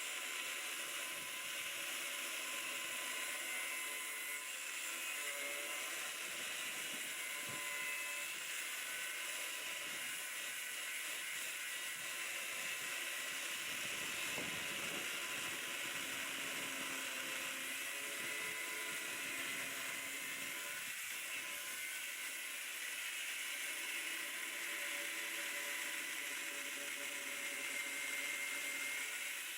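Angle grinder running steadily with a high whine, cutting corroded steel out of a Land Rover Discovery 2 chassis.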